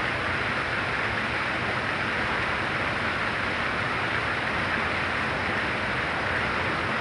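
Very heavy rain falling steadily, a dense even wash of sound with no single drops or other events standing out.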